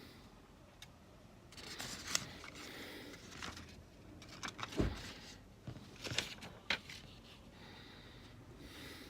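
Paper being handled: irregular rustling and scraping in a few spells, with a few sharp taps.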